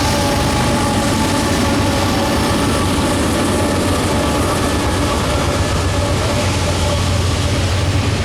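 Intermodal stack freight train hauled by diesel locomotives passing, a steady rumble with a low drone.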